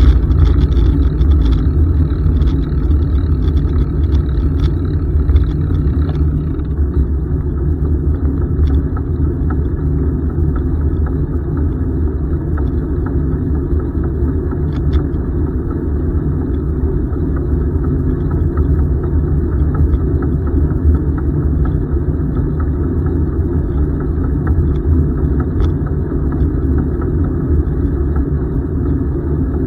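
Steady low rumble of wind on the microphone and tyre noise from a bicycle riding along a paved trail.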